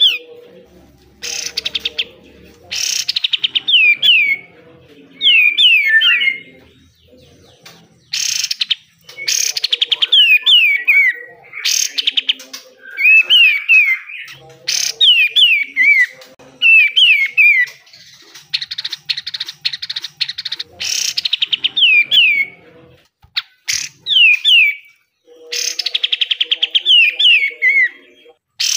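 Kapas tembak (a triller) singing hard: bursts of fast, harsh rattling (the 'besetan') alternating with runs of short notes that slide down in pitch, repeated phrase after phrase.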